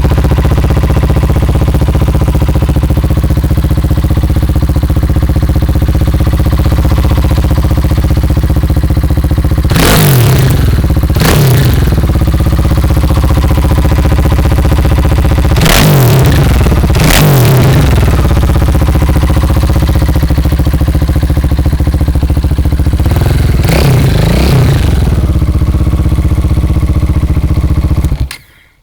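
KTM 690 Duke R single-cylinder engine idling through a Fresco slip-on exhaust with the baffle (dB killer) removed, loud, blipped in three pairs of short revs, then switched off near the end.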